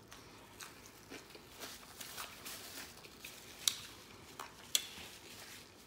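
Close-up eating sounds of a person chewing a mouthful of bacon cheeseburger: soft, crackly mouth noises, with two sharper clicks about halfway through.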